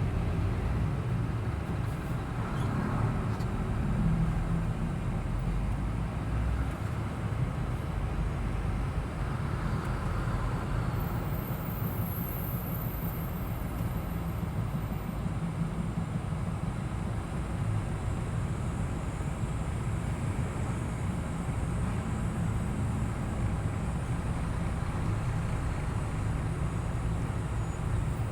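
Road traffic with trucks passing in a steady stream: a continuous low rumble of engines and tyres that holds an even level throughout.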